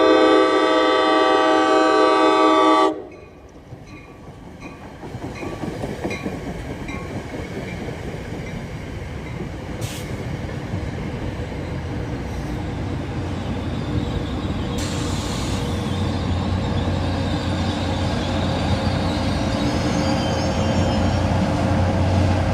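Train horn sounding one chord for about three seconds, then the rumble of the train running past, growing steadily louder, with a faint high squeal near the end.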